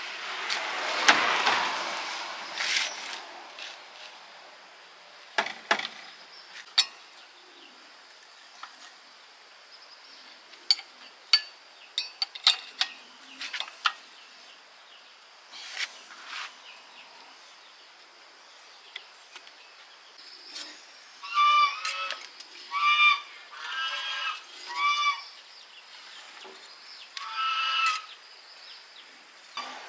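A brief rush of noise at the start and scattered sharp clicks and knocks, then, from about two-thirds of the way in, a series of six or seven short animal calls.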